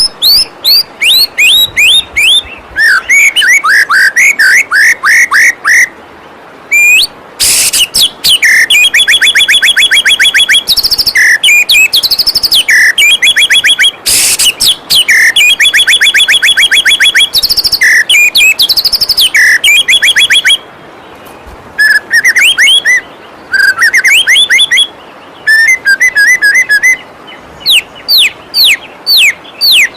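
Songbird song from a white-rumped shama (murai batu) training recording: fast runs of loud, repeated whistled and chirped notes with short pauses between phrases. A steady rush of flowing waterfall runs underneath.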